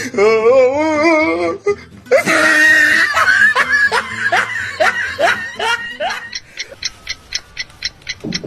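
A person laughing loudly in a run of short 'ha' bursts that each fall in pitch, about two a second, after a wavering drawn-out cry in the first second and a half. Near the end the laughter gives way to a run of quick, evenly spaced high ticks, about four a second.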